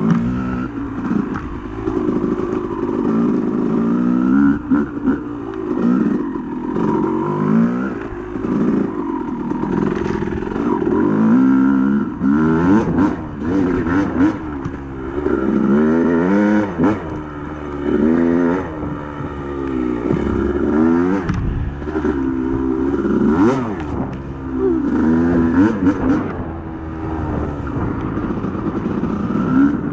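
Yamaha YZ250 two-stroke dirt bike engine on a trail ride, its pitch repeatedly climbing under throttle and dropping back, over and over.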